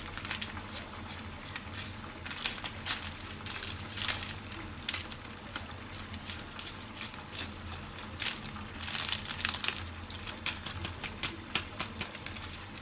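A plastic spice-mix packet crinkling as it is handled and emptied, with irregular sharp crackles over a steady low hum.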